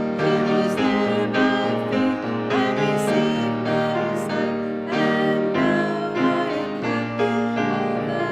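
Piano playing a slow hymn tune in sustained chords.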